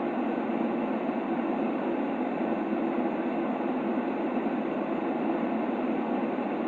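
Steady white noise for a baby's sleep: an unchanging deep hiss, heaviest in the low-mid range with little treble.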